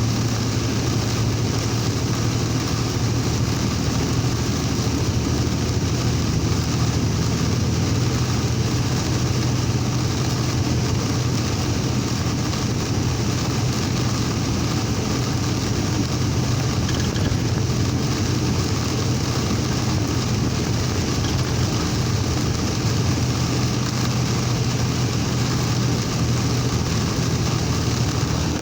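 Vehicle driving through heavy rain, heard from inside the cab: a steady low engine and road drone under a constant hiss of rain and tyre spray.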